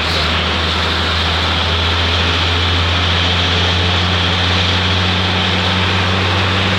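Bus engine running with a steady low drone under an even road-noise hiss, heard from inside the moving bus.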